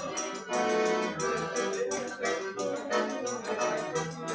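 Forró-style music led by an accordion, playing sustained chords and melody over a quick, steady percussion beat.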